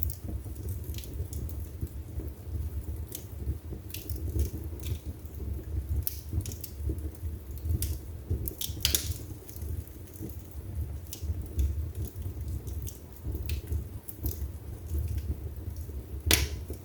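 Wood fire burning in a fireplace: a steady low rumble of the flames with scattered crackles and pops of burning wood, one sharper pop near the end.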